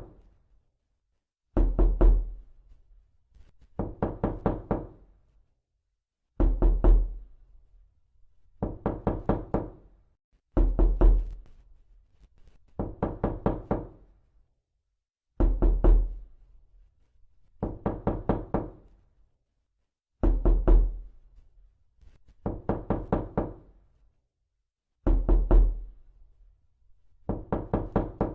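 Knocking in quick sets of about four to six rapid knocks, repeated roughly every two seconds with silence between. Some sets carry a deep thud.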